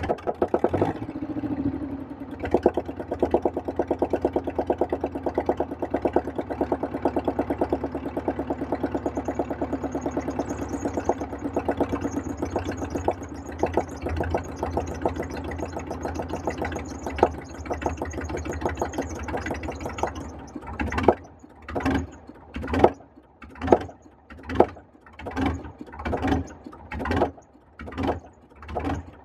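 The rebuilt starter motor cranking the Atlas 1302 excavator's air-cooled Deutz diesel in rapid, even pulses for about twenty seconds, with a faint high whine. For the last eight seconds the pulses turn slow and separate, about one a second, as the engine turns over heavily without yet running.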